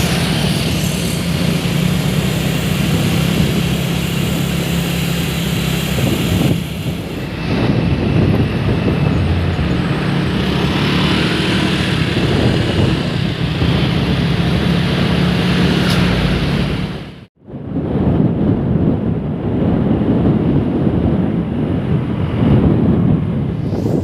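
Tuned 115cc horizontal-cylinder underbone drag-bike engine running loud at high, fairly steady revs, with a short dip about six seconds in. The sound cuts out for an instant about seventeen seconds in, then carries on rougher and less even.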